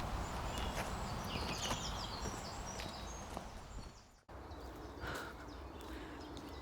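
Outdoor ambience: a steady low wind rumble with small birds chirping in short calls during the first couple of seconds. The sound drops out briefly about four seconds in, and a quieter ambience with an occasional faint chirp follows.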